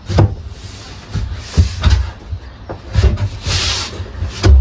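Bed boards being handled and fitted into a camper's extension-bed frame: a series of knocks and thuds, with a short scrape about three and a half seconds in as a board slides into place.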